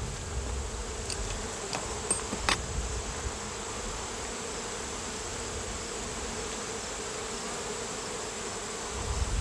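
Honeybees buzzing around an open hive, a steady hum. A few light clicks sound in the first three seconds.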